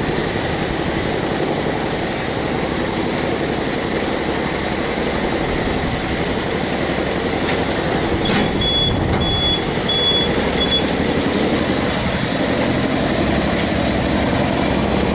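A heavy diesel engine running steadily. A little past the middle, a warning alarm sounds four short high beeps, about two a second.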